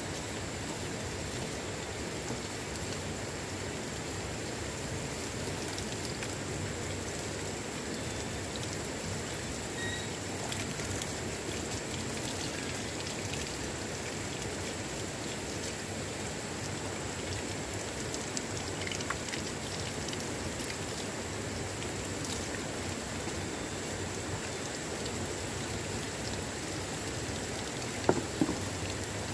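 Water making a steady, even hiss throughout, with two sharp knocks close together about a second before the end.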